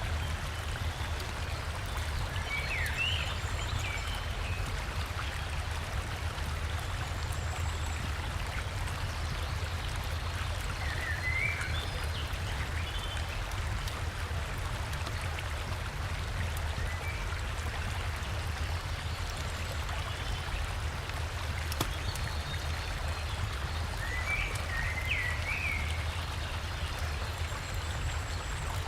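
River water rushing steadily over a small waterfall, with a forest bird giving short chirping calls three times: a few seconds in, near the middle, and again later on.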